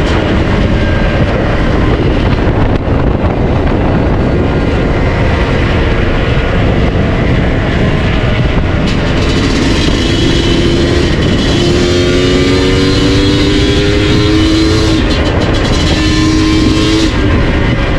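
Yamaha DT 125's single-cylinder two-stroke engine running loud through an MCF tune pipe (expansion chamber), its pitch climbing slowly several times and then dropping back.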